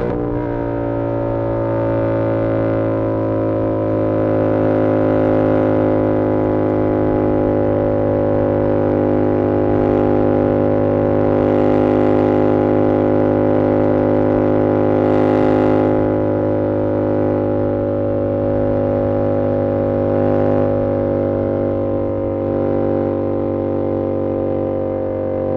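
A 2022 Yamaha R7's CP2 parallel-twin engine through an SC-Project CR-T exhaust, running at a steady engine speed with an even, unchanging drone.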